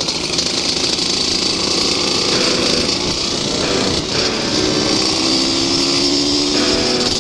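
Two-stroke motorcycle engine running under way, its pitch shifting as the throttle changes about four seconds in and again near the end.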